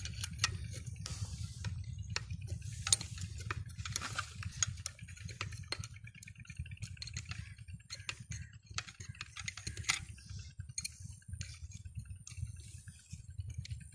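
Scattered small clicks, taps and rattles of hands working at an old diesel engine, while oil is being added to its leaking head, over a steady low hum.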